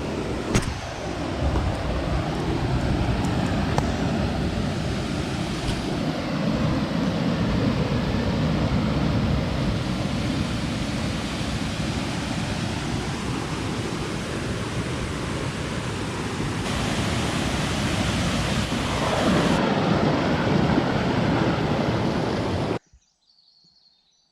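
Natural waterfall on a forest stream: a loud, steady rush of falling water that stops suddenly near the end.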